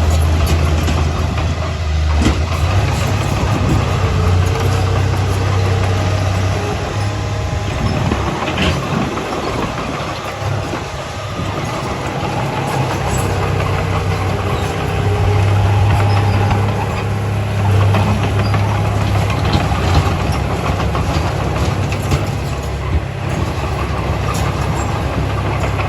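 Heavy diesel construction machinery running steadily with a deep engine hum that swells and eases, and a few sharp knocks.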